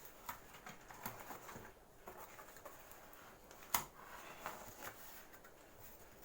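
Light rustling and tapping as a cardboard pizza box is handled, with one sharp click a little past the middle.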